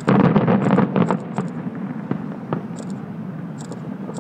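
Distant aerial fireworks shells bursting: a loud cluster of booms and crackle at the start, then a few single bangs, over a steady low rumble.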